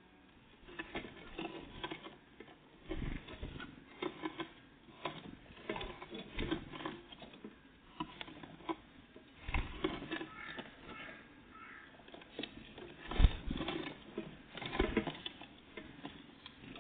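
Small birds, great tits and blue tits, feeding at a bird feeder: irregular taps and knocks of pecking and landing, the loudest knock about 13 seconds in.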